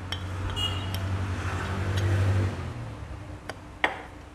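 A passing motor vehicle's engine hum, swelling to a peak and fading away over about three seconds, with a few light metallic clicks and taps from engine work.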